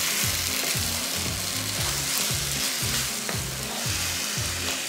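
Chicken pieces in a spiced onion-tomato masala sizzling in a nonstick pan while a spatula stirs and scrapes through them, with low background music underneath.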